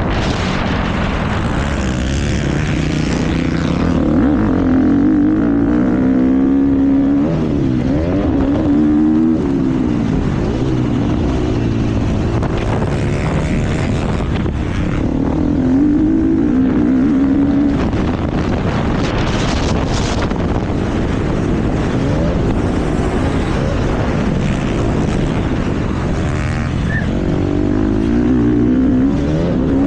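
KTM motocross bike engine at race pace, the revs repeatedly climbing and dropping as the rider accelerates, shifts and backs off, heard from a camera mounted on the bike or rider.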